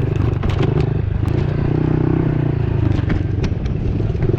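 Honda CRF110F pit bike's small single-cylinder four-stroke engine running steadily at part throttle, heard from on board, with scattered clattering and scraping knocks from the bike working over a rough trail.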